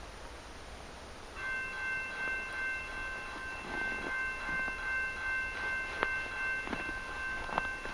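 An approaching freight train not yet in sight: a set of steady high tones starts suddenly about a second and a half in and holds on, with scattered clicks and knocks across it.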